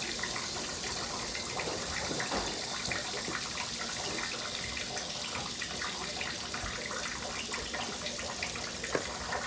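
Water running steadily from a tap into a sink, a continuous hiss with a few small knocks over it.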